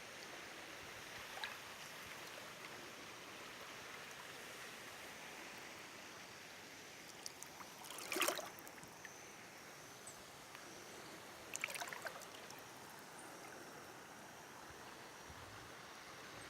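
Steady rush of river water flowing, with two short, louder bursts of sharp clicking noise, one about halfway through and another a few seconds later.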